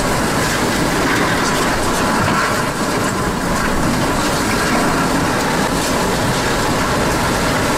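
Hurricane-force wind blowing loudly and steadily, an unbroken rush of noise.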